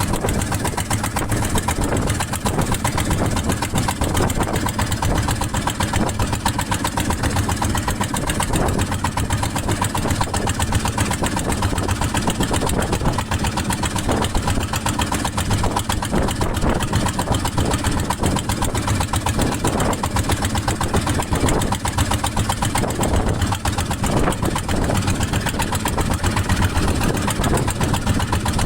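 Small fishing boat's engine running steadily under way, a constant rapid firing beat with a strong low hum.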